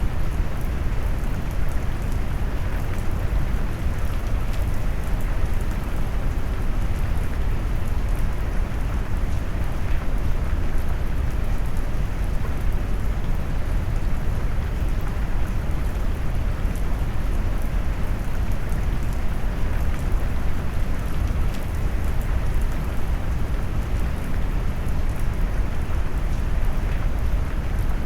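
Steady rain noise mixed with deep brown noise: an even, low, rumbling hiss with faint scattered drop ticks, unchanging throughout.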